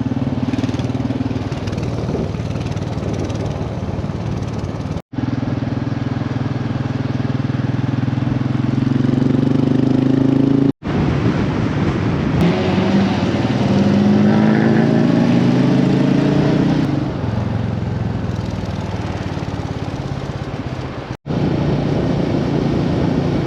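Royal Enfield motorcycle engine running on the move, its pitch rising as it accelerates several times. The sound is made of short clips cut together, breaking off abruptly three times.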